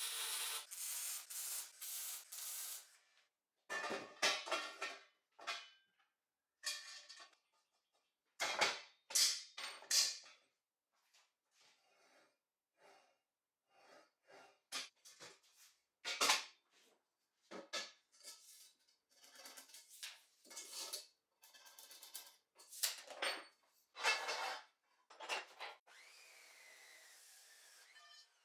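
A string of short scraping, rubbing and knocking sounds, each lasting a fraction of a second to a couple of seconds with silent gaps between, as of tools and materials being handled on a workbench. Near the end comes a steadier hiss with a gliding tone.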